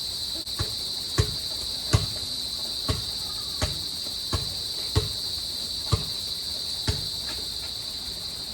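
A basketball being dribbled, bouncing about once a second with sharp thuds of uneven loudness, over a steady high-pitched chorus of crickets.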